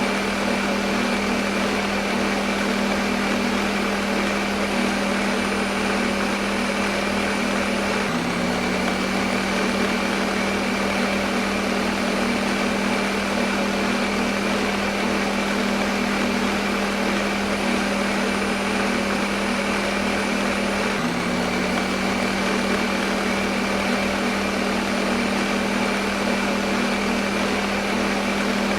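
Electric kitchen blender motor running continuously: a steady hum with a broad whirring hiss, its pitch dipping briefly twice.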